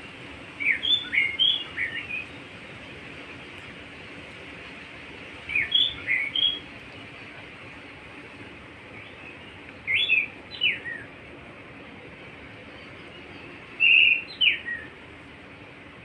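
A songbird singing short phrases of several quick whistled notes, one phrase about every four seconds, four in all, over a steady background hiss.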